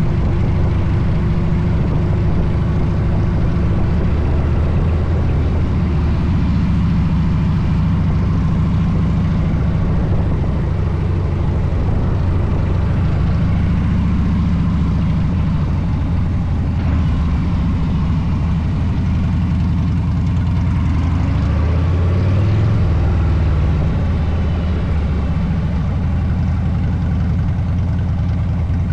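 Harley-Davidson V-twin motorcycle engine running steadily under way, with wind rushing past. The engine note climbs briefly about three quarters of the way through.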